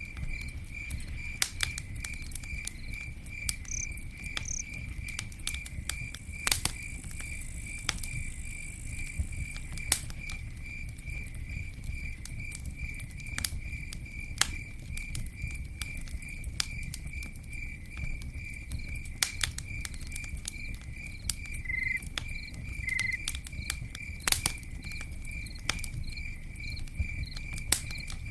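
Campfire crackling, with scattered sharp pops and snaps over a steady low rumble of burning, while a cricket chirps steadily at about two chirps a second.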